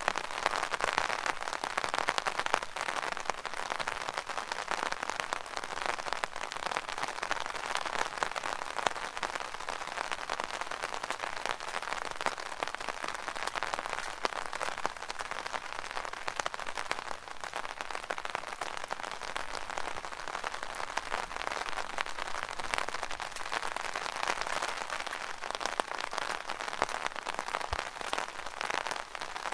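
Rain falling steadily on an umbrella: a dense, even spray of small drop hits on the canopy.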